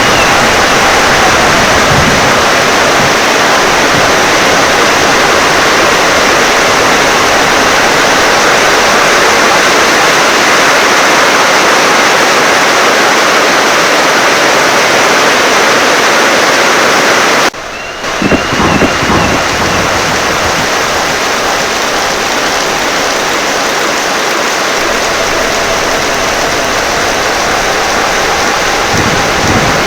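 Heavy rain pouring down in a dense, steady hiss. It breaks off for an instant just past halfway and resumes with a low rumble of thunder.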